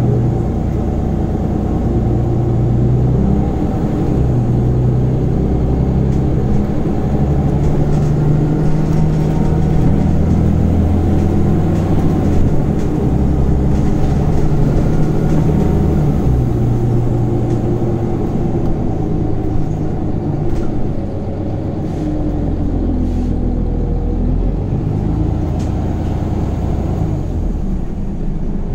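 Scania Omnicity city bus heard from inside, its diesel engine and ZF Ecomat automatic gearbox running under way, the low engine note rising and falling as the bus drives.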